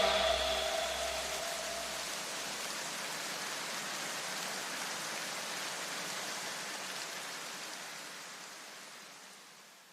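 A steady, even rushing noise that fades away over the last couple of seconds, with a low bass rumble dying out in the first few seconds.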